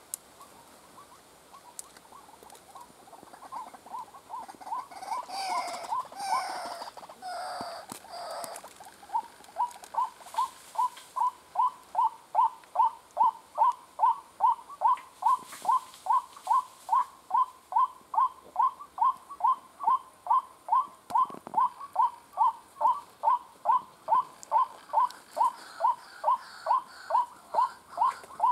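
White-breasted waterhen calling: a long, even run of short, repeated calls, about two and a half a second. Louder, harsher squawking notes break in a few seconds in.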